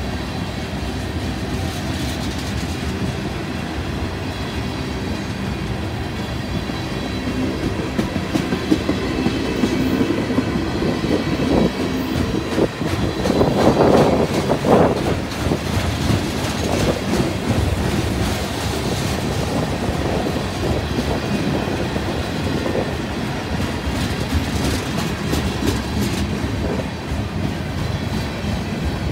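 Freight train cars (tank cars, covered hoppers and boxcars) rolling past, steel wheels rumbling and clicking steadily over the rail joints. The noise swells louder for a couple of seconds about halfway through.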